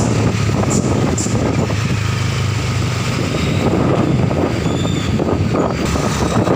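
Truck engine running with a steady low hum under dense, continuous noise, with a couple of short high clicks about a second in.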